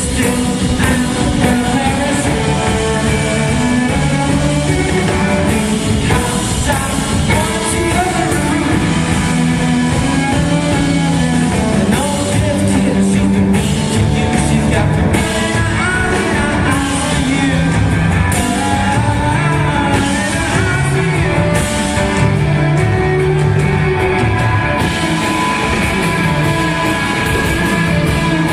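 Live band music: a loud, steady rock passage with drums and amplified instruments.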